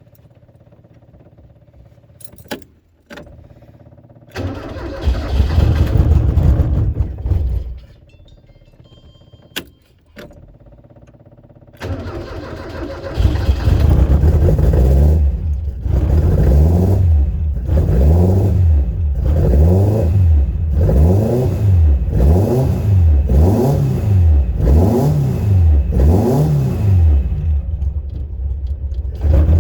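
Birkin Seven's engine being started: a first attempt about four seconds in runs for about three seconds and stops, then about twelve seconds in the engine catches and keeps running. It is revved up and down in quick blips about once a second, then settles to a steady run; the engine is reluctant to start after sitting unused.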